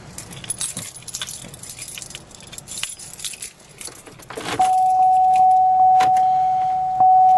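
Car keys jangling and rattling in a hand. About four and a half seconds in, a loud, steady, high-pitched warning tone from the 2008 Pontiac Grand Prix starts and holds.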